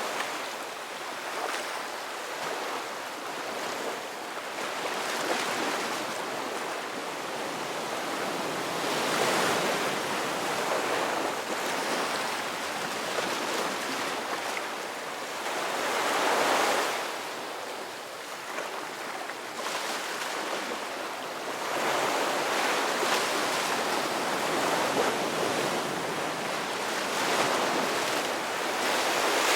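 Ocean waves breaking and washing on a shore in a steady rushing surf that swells and eases every few seconds, with stronger surges about a third and halfway through.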